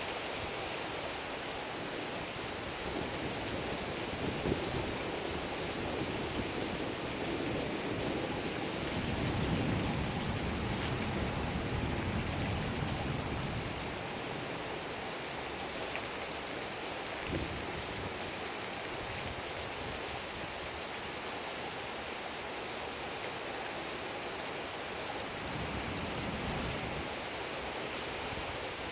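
Heavy rain pouring steadily in a thunderstorm, a dense even hiss, with a low rumbling swell about nine to thirteen seconds in and a smaller one near the end.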